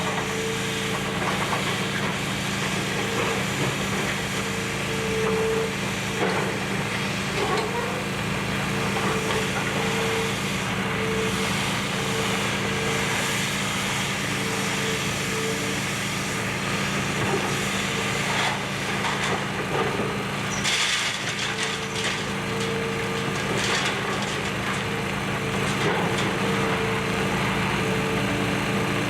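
Excavator's diesel engine running steadily under load while tearing into the building, with an on-off hydraulic whine and scattered cracking and crunching of debris.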